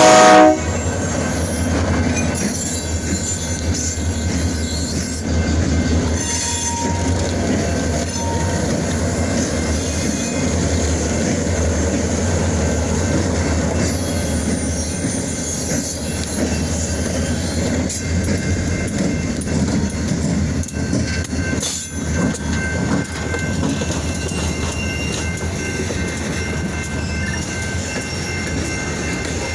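Freight train hauled by EMD GP diesel locomotives rolling past with a steady low rumble of engines and cars and some wheel squeal. A train horn cuts off about half a second in.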